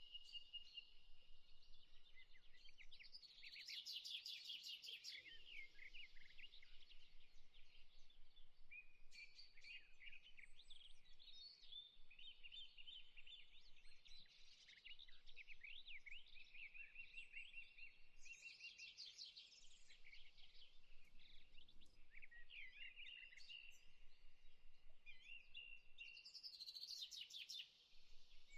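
Faint birdsong from several birds, a continuous mix of chirps and fast trills with only brief gaps.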